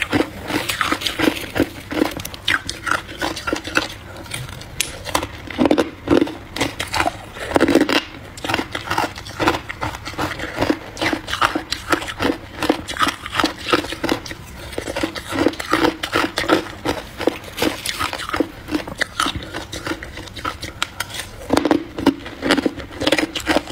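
Close-miked crunching and chewing of frost ice mixed with buckwheat: a dense run of crisp crunches several times a second, with a few louder bites about six seconds in, near eight seconds and near the end.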